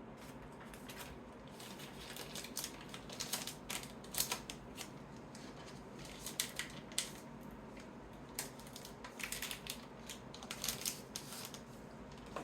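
Trading cards being handled and sorted by hand: irregular clicks, taps and short slides of card stock, coming in clusters.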